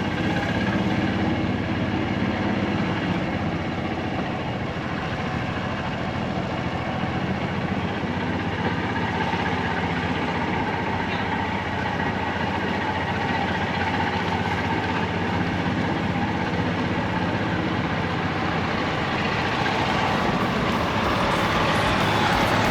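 Semi-truck engines idling steadily.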